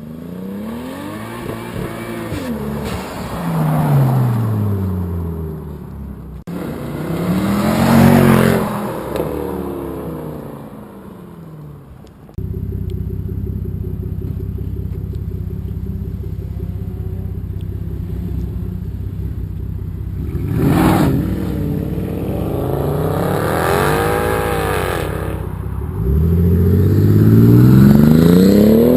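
Sports car engines accelerating hard in several short clips, the note climbing and then dropping as the cars pass. Then an engine runs steadily with two quick revs before climbing hard again near the end.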